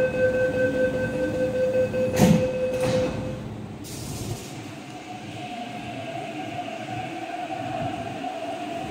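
Door-closing warning tone from an MTR East Rail Line train at a gated platform sounds steadily for about three seconds, with two clunks a little over two seconds in as the doors shut. After that, the electric train moves off with a steady motor whine and running noise.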